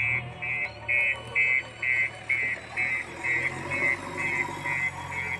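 A machine's reversing alarm beeps steadily about twice a second over a running diesel engine.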